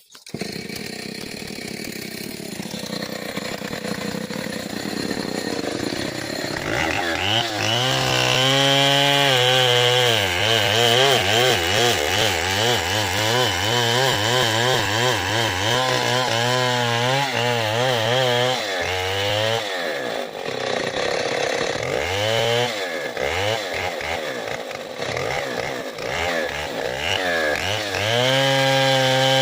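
Stihl 070 two-stroke chainsaw cutting wood. About seven seconds in it climbs to full throttle and runs hard under load, its pitch wavering as the chain bites, dips twice about two-thirds of the way through, then rises back to full speed near the end.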